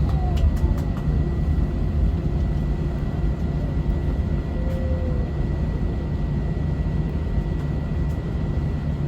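Steady low rumble inside a jet airliner's cabin as the engines run at idle before takeoff, with a faint steady high whine over it. A few light clicks sound in the first second.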